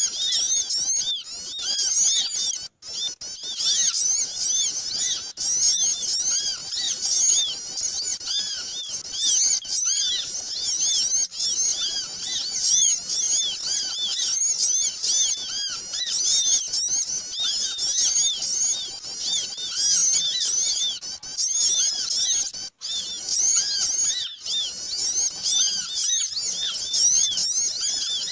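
A dense, noisy chorus of many small birds chirping and twittering without pause, all high-pitched, played as a bird-trapping lure call (suara pikat) for small birds. The sound drops out briefly twice, about three seconds in and near the end.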